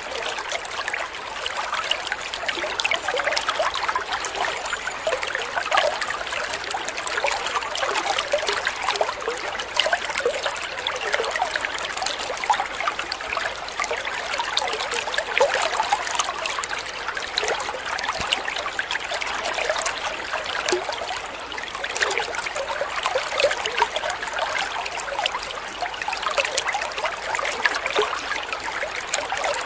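Shallow water trickling and babbling steadily over stones, a dense patter of small splashes.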